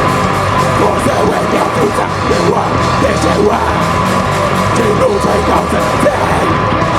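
Live heavy rock band playing loud, distorted guitars, bass and drums, with yelled vocals.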